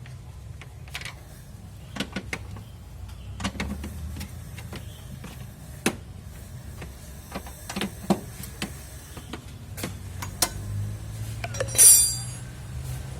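Hand tools working on a car engine during a tune-up: scattered metallic clicks and knocks over a steady low hum. Near the end there is one short, loud hiss.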